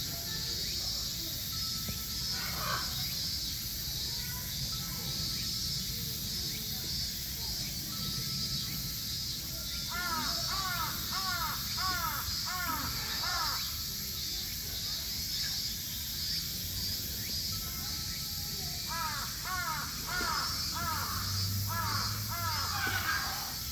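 A bird calling in two rapid runs of short arched notes, about two or three a second, about ten seconds in and again near the end, over a steady high buzz.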